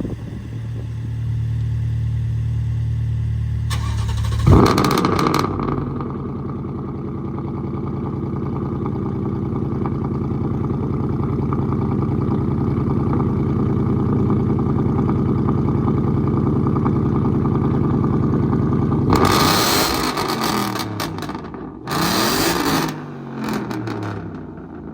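A car engine that has not run in a week is cold-started: a steady low hum, then about four and a half seconds in the engine catches with a loud burst and settles into a steady idle. Near the end the throttle is blipped about three times, and then it quietens down.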